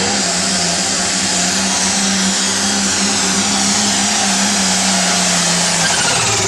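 Competition pulling tractor's engine running flat out under load, a loud continuous howl with a steady low drone and a high whine that slowly falls in pitch. About six seconds in, the low drone drops away as the engine comes off full power.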